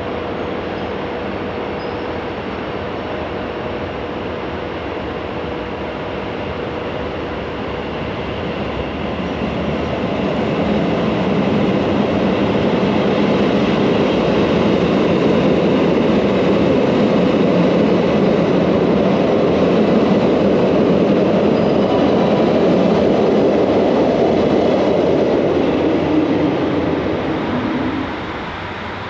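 JR Hokkaido 789 series 1000-number electric train running through the station. Its running noise swells about ten seconds in, stays loud, and eases off shortly before the end.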